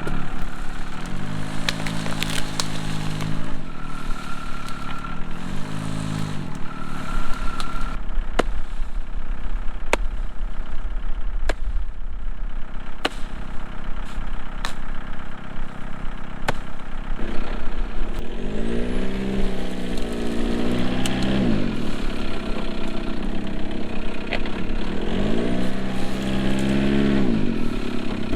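Jeep engine revving up and falling back in several hard pulls, dragging a fallen pine tree on a tow strap. Between the pulls there is a row of sharp clicks, about one every second and a half.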